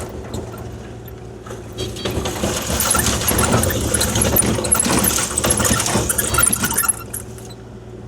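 Kubota KX040-4 mini excavator's diesel engine running steadily, with loose gravel scraping and rattling from about two seconds in until about seven seconds as the machine spreads 3/4-minus gravel.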